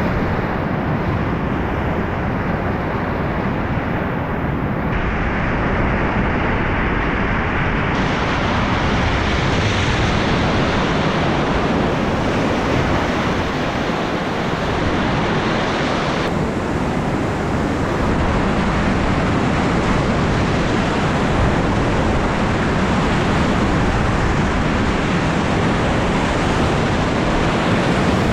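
Whitewater river rapids rushing, a loud, dense, steady wash of water noise with wind buffeting the microphone. The sound shifts abruptly in tone about 5, 8 and 16 seconds in.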